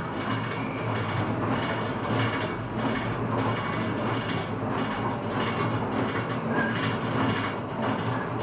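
Homemade pedal-powered washing machine running as it is pedalled, the drum turning the clothes and detergent wash: a steady mechanical rumble with a faint, uneven clatter.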